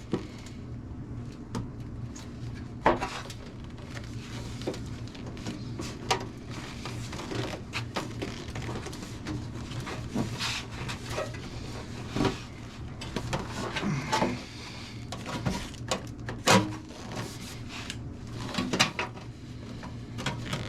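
Irregular knocks, taps and clatter of a small steel sheet-metal patch being worked and handled as its bend is sharpened, the sharpest knocks about three seconds in and near the two-thirds mark, over a steady low hum.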